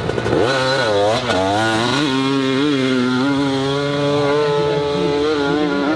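Dirt bike engine revving, its pitch dropping and climbing a few times, then held at steady high revs.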